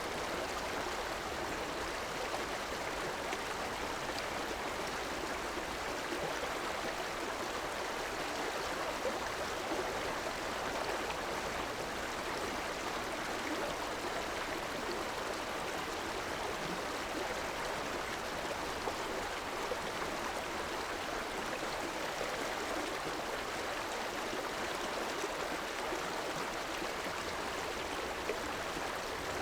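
River water flowing over rocks: a steady, unbroken rushing with light gurgling.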